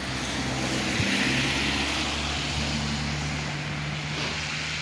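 Motor vehicle engine running with a steady low hum, and a hiss that swells about a second in and again near the end.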